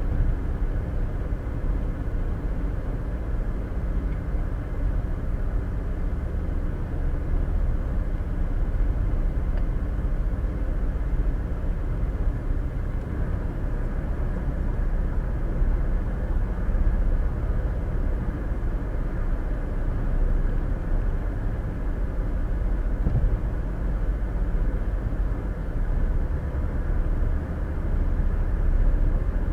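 Steady road and engine noise of a car driving at highway speed, heard from inside the cabin through a dash cam's microphone.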